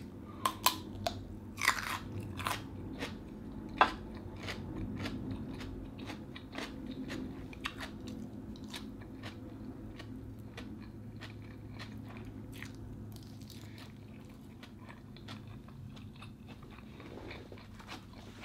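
A person biting into a whole raw cucumber and chewing it with crisp crunches. There are several sharp crunches in the first four seconds, then softer chewing goes on quietly.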